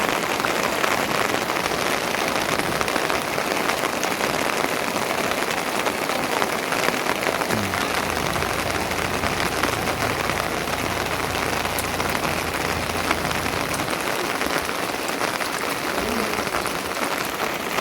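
Steady, heavy rain falling and pattering on surfaces, an even dense hiss, with a low rumble underneath from about 8 to 14 seconds in.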